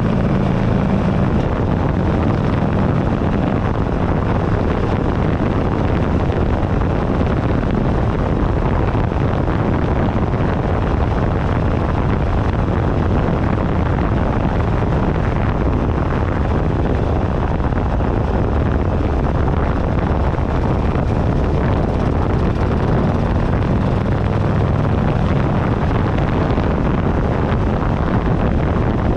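Wind rushing over a handlebar-mounted camera's microphone at riding speed, over the steady running of a 2008 Buell Ulysses XB12XT's air-cooled V-twin. The engine note comes through more clearly near the start and again about 23 to 26 seconds in.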